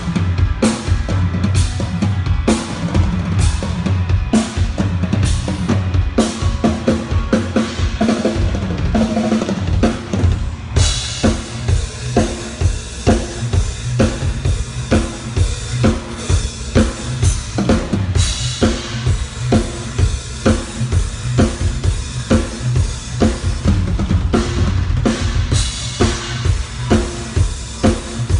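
Drum kit played in a steady groove, kick and snare hits on a regular beat. About eleven seconds in, cymbals come in and ring over the beat, with fresh cymbal crashes about halfway through and near the end.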